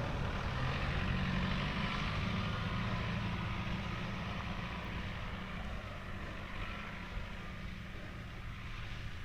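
A motor vehicle's engine running with a steady low hum, slowly fading as it moves away.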